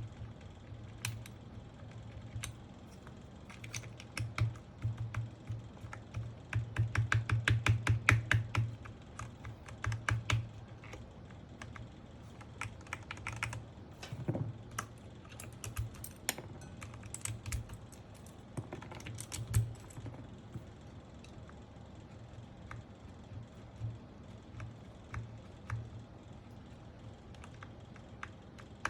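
Keys on a Sky87 mechanical keyboard fitted with Gateron Pro Milky Yellow linear switches being typed on in irregular strokes, with a fast run of keypresses about seven seconds in.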